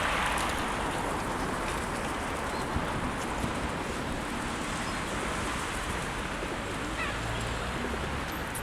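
Steady rushing hiss with a few faint, short calls from a flock of pigeons and other birds, one small chirp about seven seconds in.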